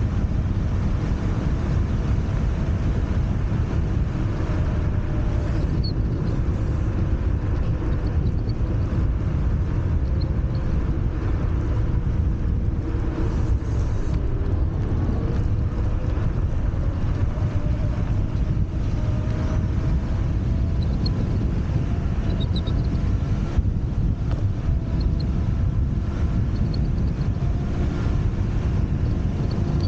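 Wind rushing over the camera microphone while riding a Wolf Warrior 11+ electric scooter, with a faint motor whine from the scooter that rises and falls in pitch as the speed changes.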